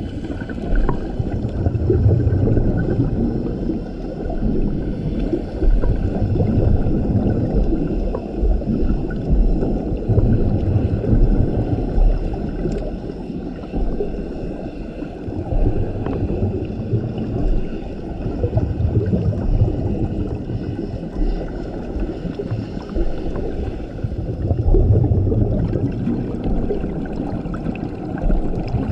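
Scuba diver breathing through a regulator underwater: a muffled, gurgling rumble of exhaled bubbles swelling and fading with each breath, about every four to six seconds, under a steady underwater hiss.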